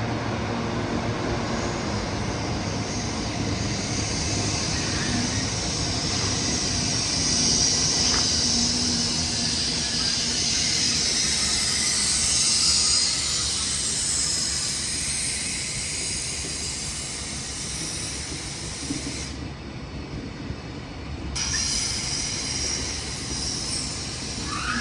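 A Caledonian Sleeper train running past on the rails: a steady rush of wheel-on-rail noise with a high hiss that swells to its loudest around the middle and then fades. A low hum sounds under it for the first several seconds.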